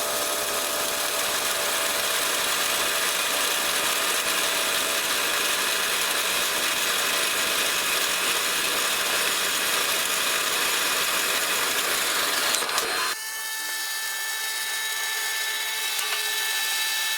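A power tool running steadily. About 13 seconds in, its sound changes abruptly to a quieter running sound with a few steady higher tones.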